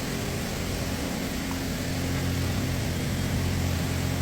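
Automatic car wash machinery running: a steady mechanical hum under a broad hiss of spraying.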